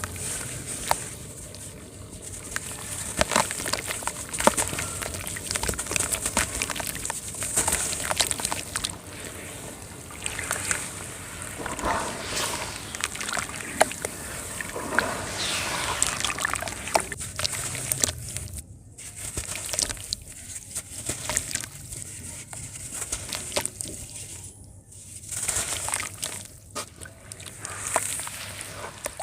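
Round shapes of dry sand crumbling in water: sloshing and splashing, with a crackly hiss of many small clicks that comes and goes in louder patches every few seconds.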